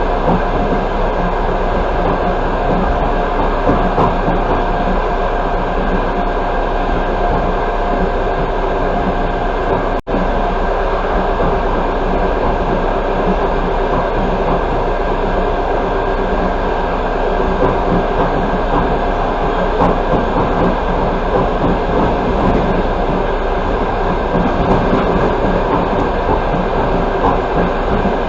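Passenger train running at speed, heard from inside the carriage: a steady rolling rumble of wheels on rail. The sound breaks off for a split second about ten seconds in.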